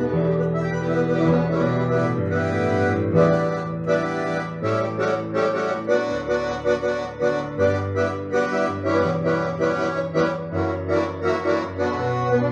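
Accordion playing an instrumental tune: a quick melody of short notes over held bass notes that change every second or so.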